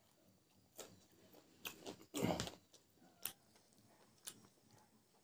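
A person chewing a mouthful of food close to the microphone: scattered wet clicks and smacks at irregular intervals, the loudest and fullest about two seconds in.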